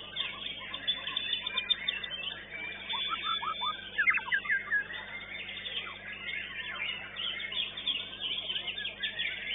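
White-rumped shama (murai batu) singing amid a dense chorus of other caged songbirds, many high chirps and whistles overlapping without a break.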